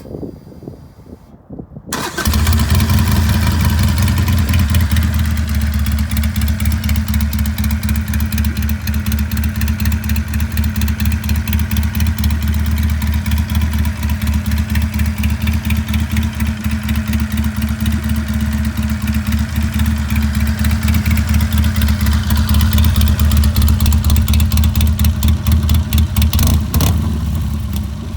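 Harley-Davidson Iron 883's air-cooled V-twin starting about two seconds in, then idling loudly with a steady pulsing beat through a Two Brothers Racing two-into-one megaphone exhaust, on an untuned engine with the stock air filter.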